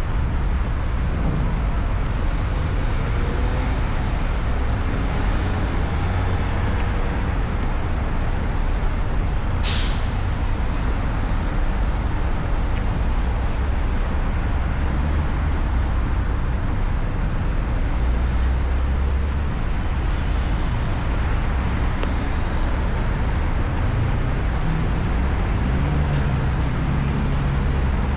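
Steady road and wind noise on the microphone of a ride through city traffic on an electric motorcycle. A short, sharp hiss comes about ten seconds in.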